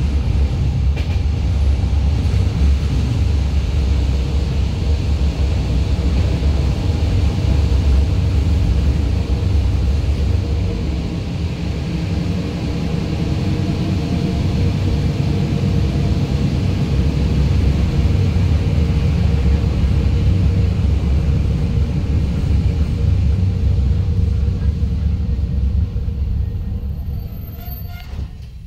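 Passenger train running, heard from inside the carriage: a steady low rumble of wheels on track and the running train, fading away near the end.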